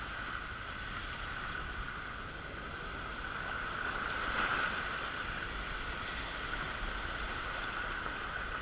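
Steady rush of water on a water-park raft slide as a raft rides down it, swelling slightly about four to five seconds in.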